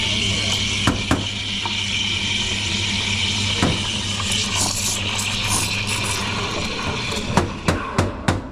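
Café espresso machine running: a steady hiss over a low hum, with a couple of knocks about a second in and another later. Near the end comes a quick run of knocks and clinks, and the hiss stops.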